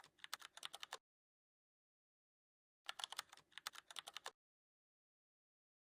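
Typing on a keyboard: two short bursts of rapid key clicks, the second starting about three seconds in.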